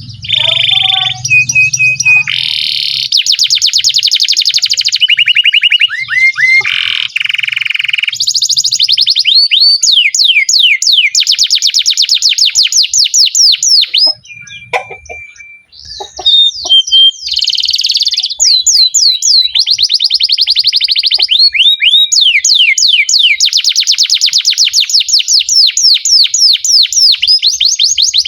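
Domestic canary singing a long song of rapid, high trills and rolls, switching from one fast-repeated note to another, with a short break about halfway through.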